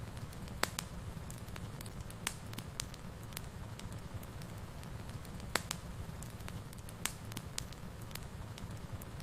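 Wood fire burning in a fireplace: a steady low rumble with irregular sharp crackles and pops, the loudest about half a second, five and a half and seven seconds in.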